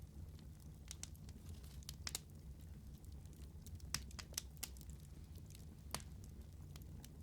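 Wood fire crackling in a fireplace: scattered sharp pops and snaps over a low steady rumble of burning, with the loudest pops about four and six seconds in.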